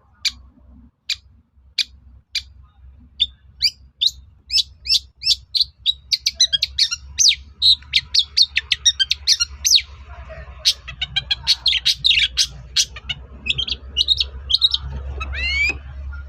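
Long-tailed shrike (cendet) calling: sharp single notes under a second apart at first, coming faster after about four seconds into a dense run of rapid chattering notes, with a quick wavering trill near the end.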